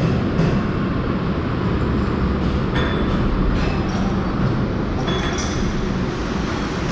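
Steady rumble of road and wind noise from a vehicle moving along a highway, with a few brief clicks and short high tones about three and five seconds in.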